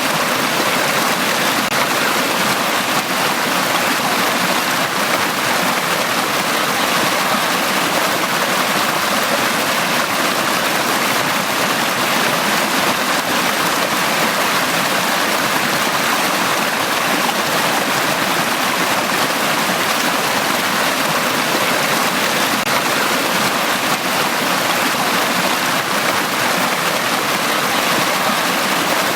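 Valley stream water flowing and rushing over rocks in a steady, unbroken hiss.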